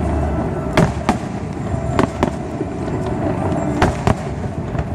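Aerial fireworks bursting in quick succession over a steady rumble, with sharp bangs about once or twice a second.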